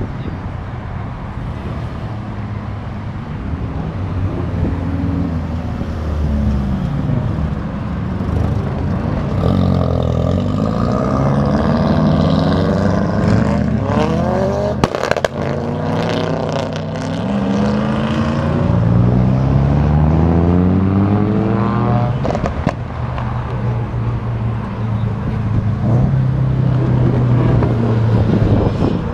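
Car engines accelerating away in turn, their pitch rising in several runs through the gears, with a few sharp cracks about halfway. Near the end an engine holds a steady, low idle.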